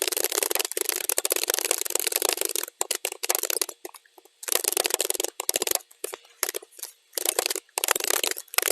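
Computer keyboard typing, played at double speed: a rapid, dense stream of key clicks that pauses briefly about three seconds in and again about seven seconds in.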